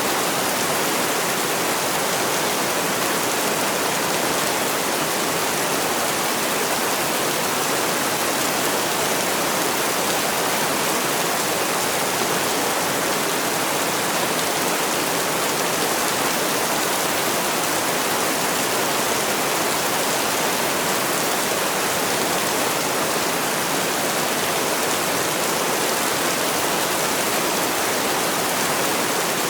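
Heavy rain falling, a steady even hiss with no breaks or separate drops standing out.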